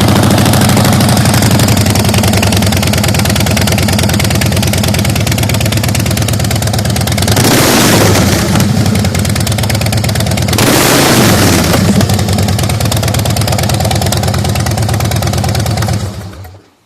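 2007 Harley-Davidson Night Train's Twin Cam 96 V-twin, just started, idling through Vance & Hines Side Shots exhaust. It is revved twice, a few seconds apart near the middle, then settles back to idle and is shut off near the end.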